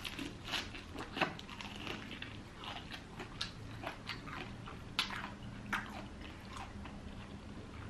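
Popeyes fried chicken being bitten and chewed close to the microphone: irregular crisp crunches and mouth clicks, the sharpest about a second in and about five seconds in.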